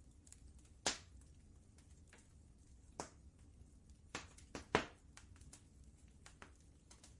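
Wood fire crackling in a fireplace: irregular sharp pops and snaps over a low, steady rumble, with a cluster of louder pops a little past the middle.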